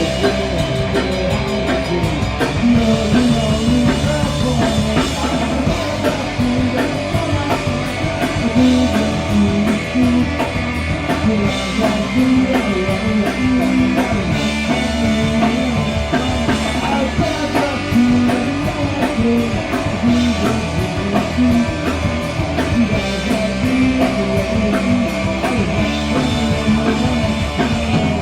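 Punk rock band playing live, with distorted electric guitars, bass and a driving drum kit running at a fast steady tempo.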